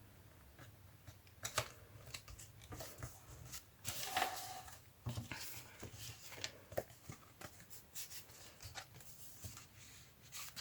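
Paper being handled at close range: scattered rustles, light taps and clicks, with a longer rustle about four seconds in.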